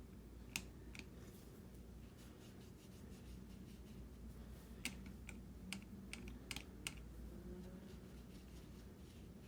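Light clicks and taps of a paintbrush against watercolour half pans and a metal palette while paint is picked up, a couple near the start and a quick cluster in the middle.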